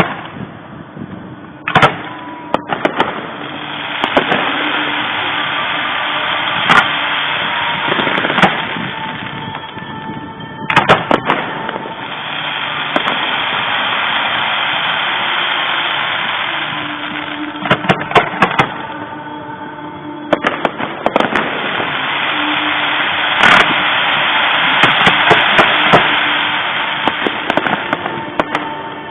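Fireworks bursting overhead: sharp bangs, some single and some in quick clusters, over a rushing noise that swells and fades in long waves between them.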